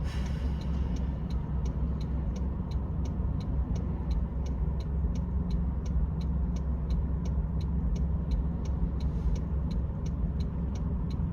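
Car driving, heard from inside the cabin: a steady low rumble of engine and road noise, with an even, quiet ticking about three times a second.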